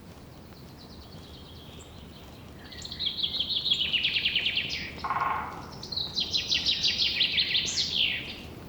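A songbird singing two loud trilled phrases of rapid repeated high notes, each about two seconds long, the second ending in a quick rising-and-falling flourish. A brief lower call sounds between the two phrases.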